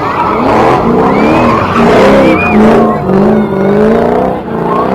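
Car engine revving hard, its pitch climbing and dropping several times in quick succession.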